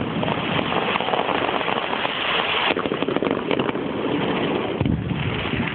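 Steady rushing roar of water pouring over the Pulteney Bridge weir.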